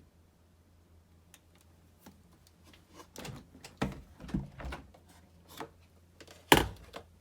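A run of irregular clicks and knocks, as of something being handled, ending in one loud, sharp knock near the end.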